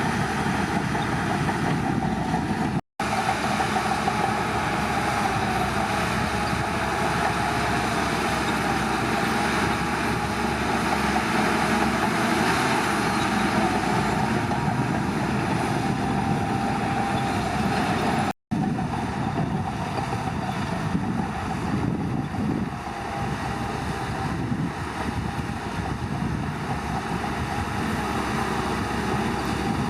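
Shantui bulldozer's diesel engine running steadily under load, with a steady whine over the engine noise. The sound cuts out for an instant twice, about three seconds in and past the halfway point.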